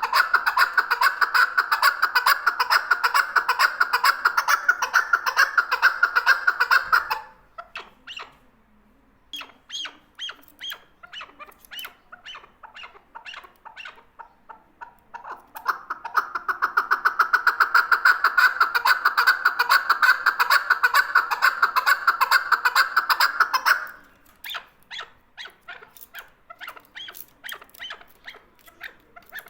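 Male chukar partridge calling: two long bouts of fast, continuous chuck notes run together, one stopping about seven seconds in and another past the middle. Between and after them come sparser, separate chucks.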